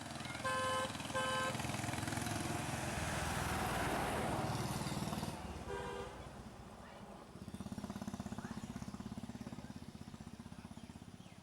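A vehicle horn tooting twice in quick succession and once more about six seconds in, over the noise of a vehicle passing close by. After that an engine runs with a rapid, even throb.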